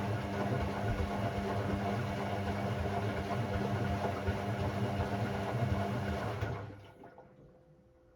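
Hoover Sportswear 1300 AI130 washing machine running with a steady mechanical hum, which stops about six and a half seconds in.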